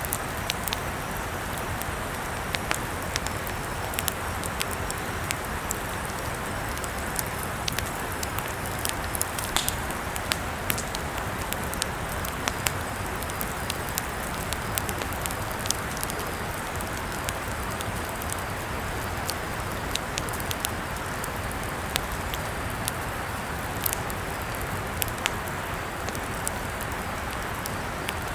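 Campfire crackling: irregular sharp pops and snaps over a steady hiss of the burning wood.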